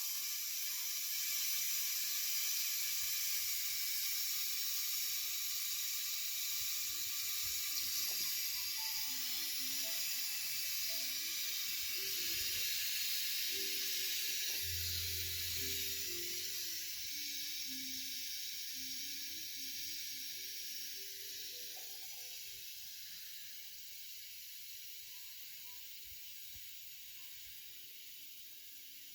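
Toilet tank fill valve hissing as water trickles in, the tank still refilling slowly after a float adjustment. The hiss holds steady, then grows gradually fainter over the last third as the valve closes off.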